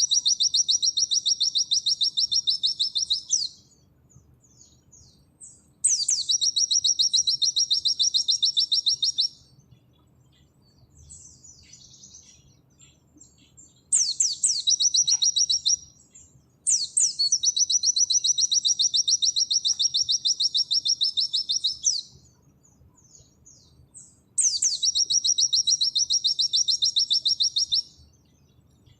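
Pleci (white-eye) singing its 'nembak' song: long, fast, high trills of a few seconds each, every bout opening with a sharp falling note, five bouts with short pauses between them filled by faint chips.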